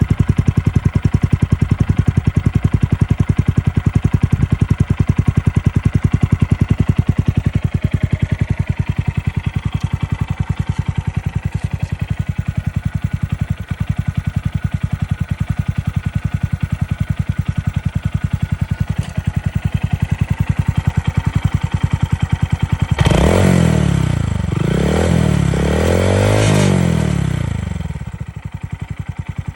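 Honda Monkey 125's single-cylinder four-stroke engine idling steadily through an OVER normal-look aftermarket muffler, then revved in several quick blips near the end, the pitch rising and falling with each.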